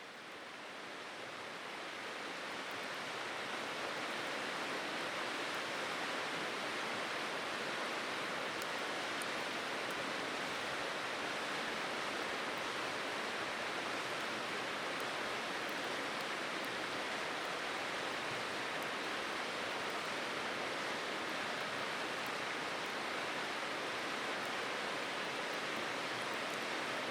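Steady rushing of flowing water, like a stream running close by, fading in over the first few seconds and then holding even, with a few faint ticks.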